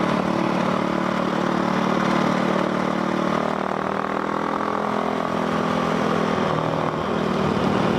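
Yamaha WR450F's single-cylinder four-stroke engine running through an FMF aftermarket exhaust. The engine note holds steady, eases off about six seconds in, then picks back up.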